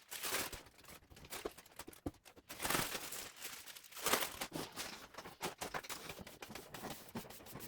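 Scratchy rustling and crinkling with small clicks, in uneven bursts: spilled model-tree foam scatter being swept up off a tabletop.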